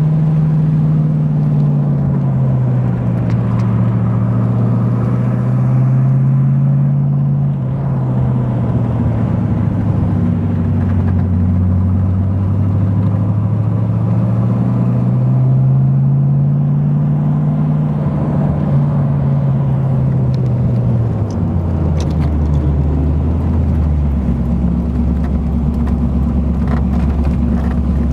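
Corvette's 327 small-block V8 with chambered dual exhausts, heard from inside the cabin while the car is driven. The engine note rises and falls with the throttle, then drops to a lower, steady note about three-quarters of the way through.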